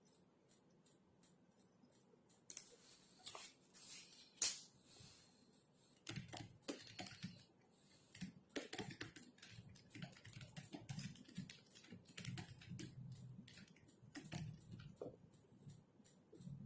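Typing on a computer keyboard: keys clicking in quick, irregular runs that start in earnest about six seconds in, with one sharp click a little before that.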